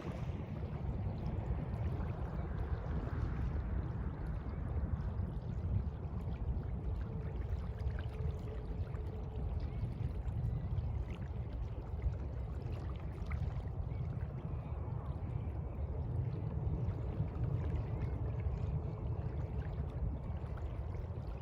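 Sea water washing and sloshing steadily, with a continuous low rumble underneath.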